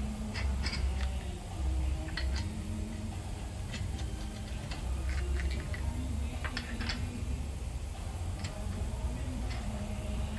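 Scattered light clicks and clinks of hand tools at irregular intervals, over a steady low hum.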